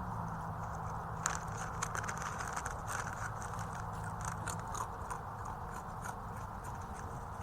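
Kettle potato chips being crunched and chewed: quick, irregular crisp crackles, densest from about a second in until around five seconds, then sparser. The uploader attributes the eating to a sasquatch. A steady low hum runs underneath.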